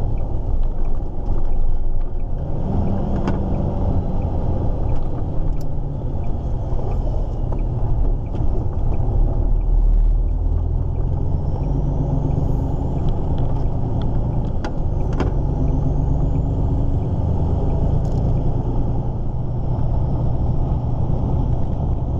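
Volvo F16 truck's 16-litre straight-six diesel heard from inside the cab while driving, a steady low engine note whose pitch shifts a few times as engine speed changes.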